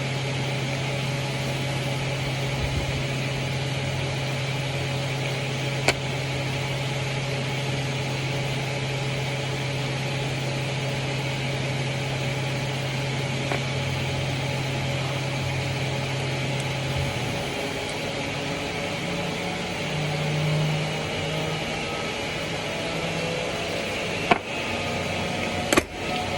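CNC machine running with a steady hum. About two-thirds of the way through, the low tone stops and gives way to shifting tones, with a few sharp clicks near the end before the sound cuts off.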